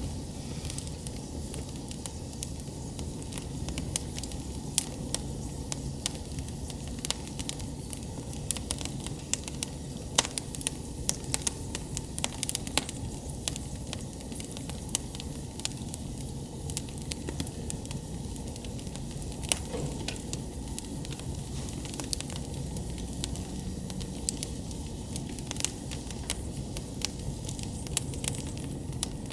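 Wood campfire burning, with frequent irregular sharp crackles and pops over a steady low rush of flame.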